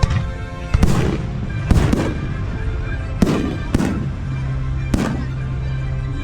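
Fireworks bursting overhead: about six sharp bangs in quick succession, some a fraction of a second apart, over music playing throughout.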